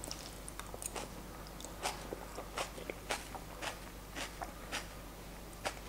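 A person chewing a mouthful of savory yogurt bowl with vegetable toppings, a quiet run of soft crunches every half second or so.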